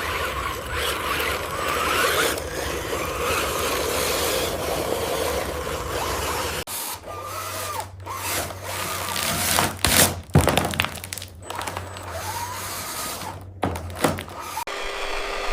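Small electric motors in toy RC construction vehicles whining and rising and falling in pitch as they work, with gear noise. Sharp knocks and clatter come in the second half.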